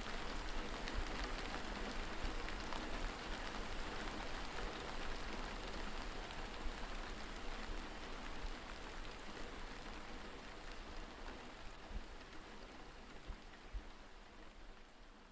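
Steady rain falling, fading out slowly over the second half.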